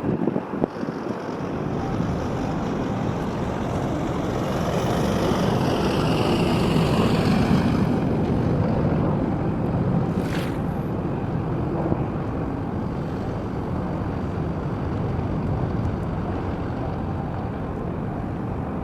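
Wind buffeting the microphone over a steady low rumble of open-air harbour noise, swelling a little in the middle, with a brief high squeak about ten seconds in.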